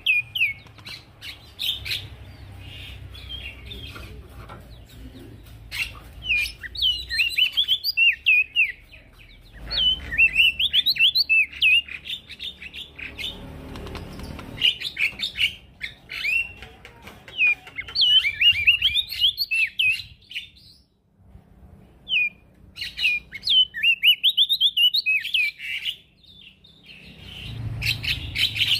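Male prenjak daun songbird singing in bursts of quick, high, warbling chirps, each phrase a few seconds long with short pauses between.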